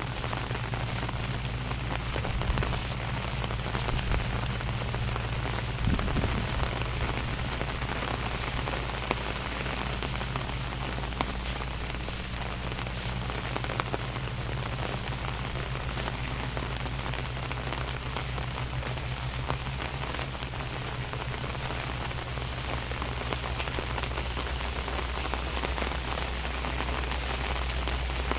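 Steady rain falling, with scattered sharp drop hits and a steady low hum underneath.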